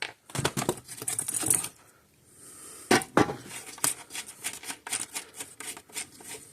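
Small metal parts and tools clicking and clattering as a fence charger is taken apart by hand: a dense rattle for about a second and a half near the start, then scattered clicks and knocks.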